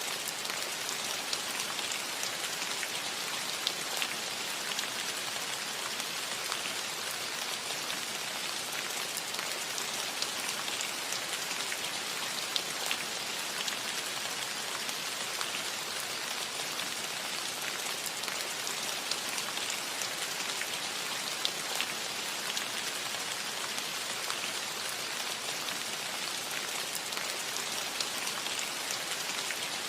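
Steady rain falling on a cottage roof: a dense, even hiss with many scattered sharper taps of single drops.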